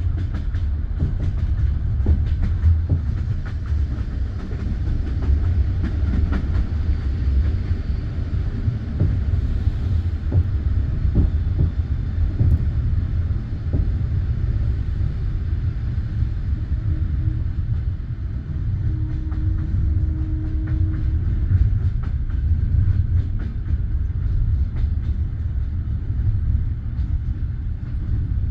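Passenger railway carriage rolling along the track: a steady low rumble with irregular wheel clicks and knocks over the rails. A brief faint whine sounds about two-thirds of the way through.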